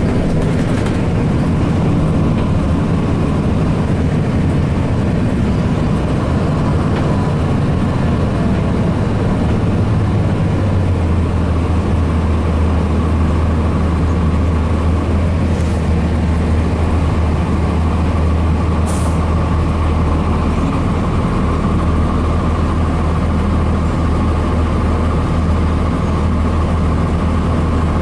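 Cummins ISC diesel engine of a 2002 Blue Bird CS transit bus running steadily. About eleven seconds in, its low drone grows stronger and steadier, and two brief hisses follow a few seconds apart.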